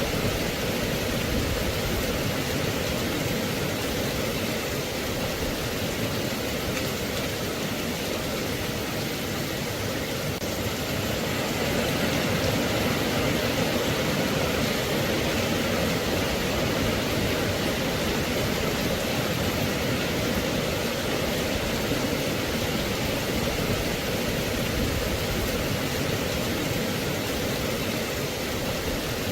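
Steady rain, an even hiss with no single drops standing out, growing slightly louder about twelve seconds in.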